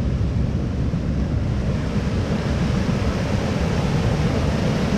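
Steady rushing of creek water, with a heavy low rumble under a broad hiss.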